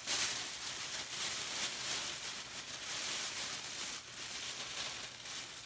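Continuous rustling and crinkling as leftover artificial flowers are handled and pulled out.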